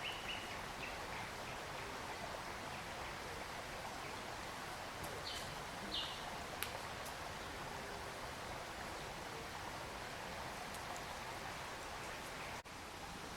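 Forest ambience dominated by a steady rush of running water, with a few short high-pitched bird notes, two of them about five and six seconds in.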